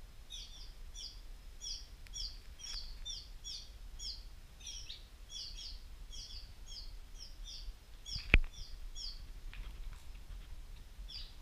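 A small bird calling a steady series of short, high chirps, about three a second, that stops about nine seconds in. A single sharp knock sounds about eight seconds in, over a low rumble.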